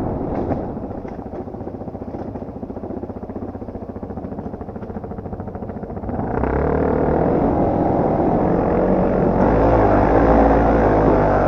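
Yamaha TT250R single-cylinder four-stroke engine, first at low revs and off the throttle with an even pulsing beat. About six seconds in, the throttle opens and the engine runs louder and harder under load.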